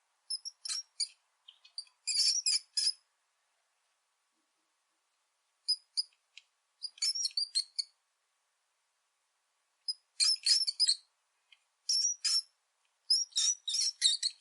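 Rat squeaking: groups of rapid, short, high-pitched squeaks, separated by silent pauses of a second or more.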